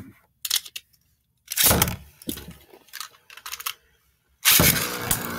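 Plastic clicks and rattles of Beyblade parts being handled, then about four and a half seconds in a sudden loud rattling that carries on: spinning Beyblade tops launched and clashing in a plastic stadium.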